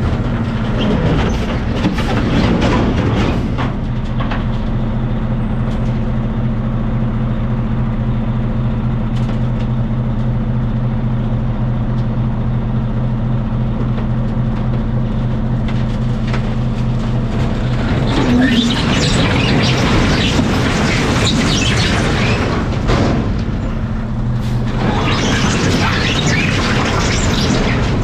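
Dump truck's diesel engine running with a steady low drone, with louder stretches of rushing noise over it about eighteen seconds in and again near the end.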